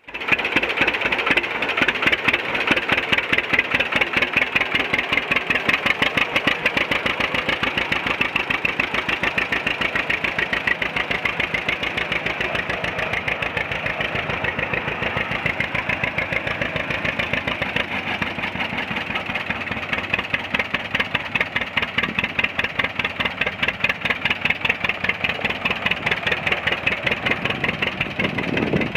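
1947 John Deere A tractor's two-cylinder engine running at a steady idle, a regular, even popping beat that goes on without a break.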